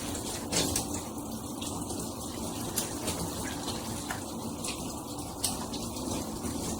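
Water spraying steadily from a shower head, with a few brief knocks over the running water.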